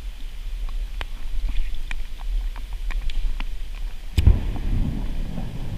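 Scattered raindrops ticking, then about four seconds in a sudden clap of thunder that carries on as a low rumble.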